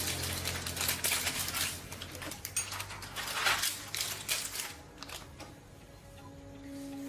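Irregular light clicks and taps, the sound of hand work with small hard objects, with a few short bursts of hiss. A steady low hum starts about six seconds in.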